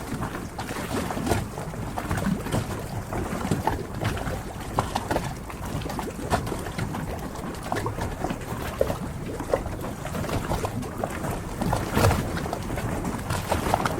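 Harbour ambience: water lapping and sloshing over a steady wash of noise, with irregular small knocks and clicks throughout and a louder knock about twelve seconds in.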